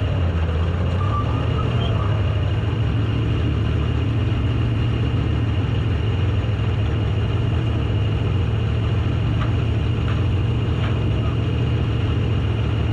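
Race car engine running at a steady, even speed with a low drone.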